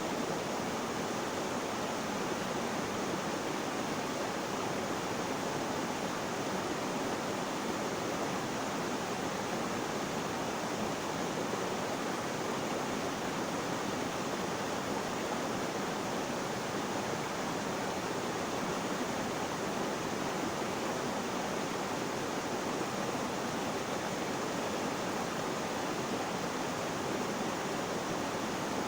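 Flowing water rushing steadily, an even, unbroken hiss that neither rises nor falls.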